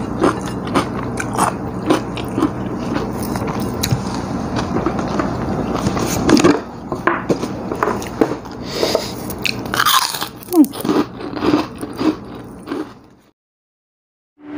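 Close-miked chewing and crunching of food eaten by hand, a stream of short wet clicks and crunches. The sound cuts to silence about a second before the end.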